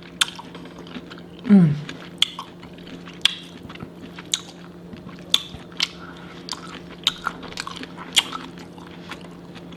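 Close-miked mouth sounds of a person eating a seafood boil: chewing with a string of sharp wet smacks and clicks. A short voiced hum falling in pitch comes about a second and a half in.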